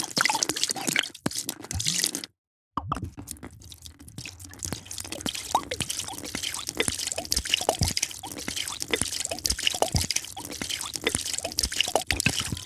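Liquid being poured into a glass: a steady splashing pour full of small bubbling plinks and drips, broken by a short silent gap about two seconds in.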